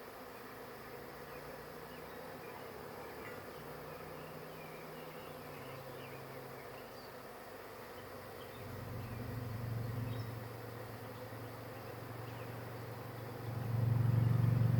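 Honey bee swarm buzzing steadily around hive boxes. A louder low hum swells for a couple of seconds around the ninth second, and another comes in near the end.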